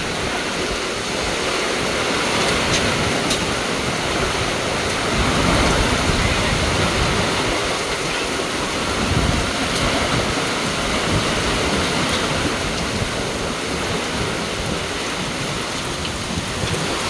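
Heavy rain pouring steadily in a downpour, with a deeper low rumble swelling up a couple of times around the middle.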